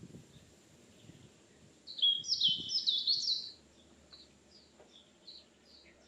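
A bird singing in forest: about two seconds in, a loud, fast run of high, swooping notes lasting about a second and a half, followed by softer short notes repeated every half second or so.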